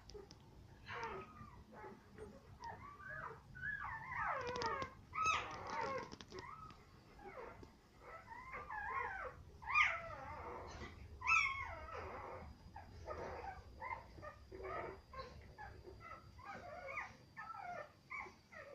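Newborn German Shepherd puppies whimpering and squealing: a steady run of short high cries that slide up and down in pitch, several overlapping at once.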